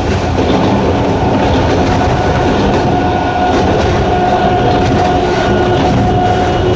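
Sangi Railway Hokusei Line narrow-gauge electric train running, its nose-suspended traction motors giving a steady whine over the noise of the wheels on the track.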